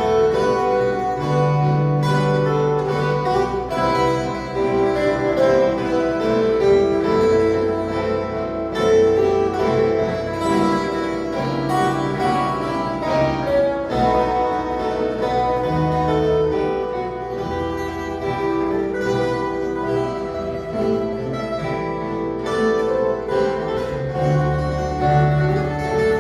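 An ensemble of violas caipiras, Brazilian ten-string steel-strung guitars, playing an instrumental Christmas piece: bright plucked melody and chords over held bass notes.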